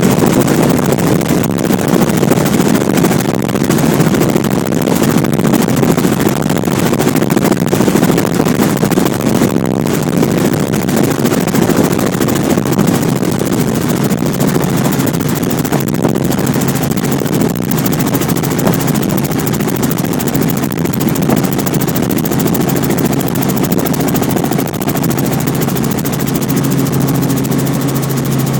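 Robinson R44 Clipper II helicopter's rotor and six-cylinder piston engine running loud and steady as it hovers and sets down. In the last few seconds the noise settles into a steadier hum with a clear low tone.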